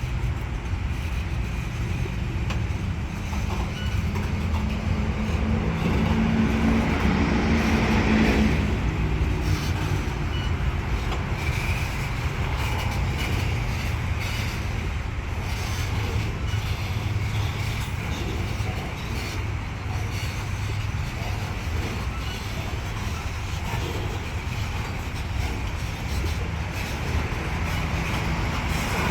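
Freight train rolling past with a steady, loud rumble of wheels on rails. A low drone builds from about four seconds in and cuts off about eight seconds in.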